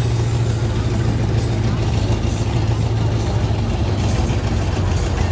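Muscle car engine idling with a low, steady rumble.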